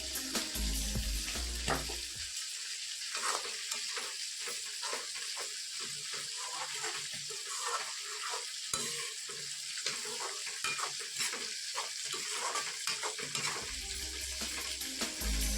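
Chicken frying and sizzling in a pan, stirred with a spatula that scrapes the pan in short irregular strokes. Background music plays over the first two seconds and comes back near the end.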